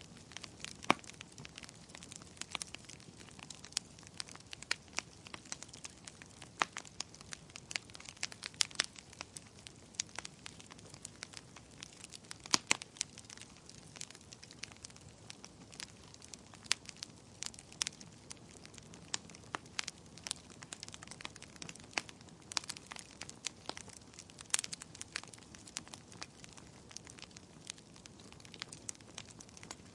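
Wood fire crackling, with irregular sharp pops and snaps over a faint steady hiss of burning.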